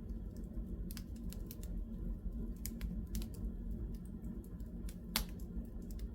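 Wood fire crackling in a fireplace: irregular sharp pops and snaps over a low steady rumble, the loudest pop about five seconds in.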